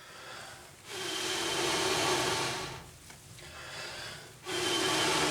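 A person blowing long, steady breaths into a smouldering tinder nest of char cloth to coax it into flame: two long blows of about two seconds each, with a pause between them to draw breath.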